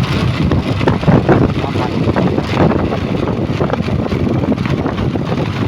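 A truck engine running loudly and steadily, with wind buffeting the microphone and indistinct voices in the background.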